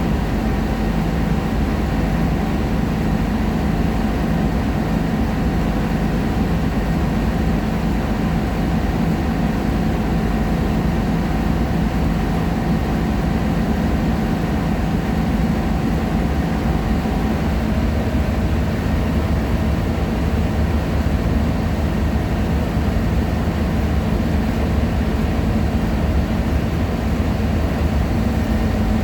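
Scania K-310IA articulated bus's diesel engine running steadily under way, a deep drone with a steady hum over it; a higher whining tone in it drops slightly about two-thirds of the way through.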